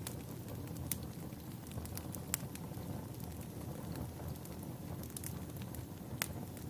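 Logs burning in a wood fireplace: a steady low rush of flame with a few sharp pops and crackles scattered through, the loudest about two seconds in and again near the end.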